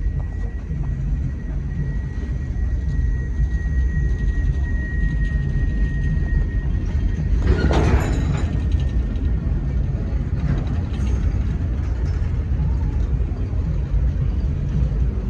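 A train running past with a heavy, steady rumble and mechanical clatter. A thin, steady high squeal sounds for the first six or seven seconds, and a louder, noisier surge comes about halfway through.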